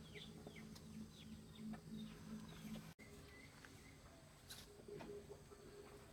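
Faint bird chirping outdoors: many short, quickly falling chirps in the first half, thinning out after a brief dropout about three seconds in, over a faint steady hum.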